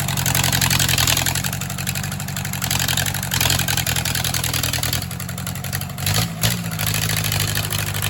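A 1963 Case 310F bulldozer engine running steadily at idle, with a brief rise in pitch a little past six seconds in.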